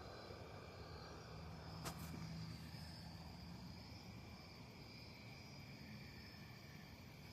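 Faint steady trilling of insects, with one sharp click about two seconds in.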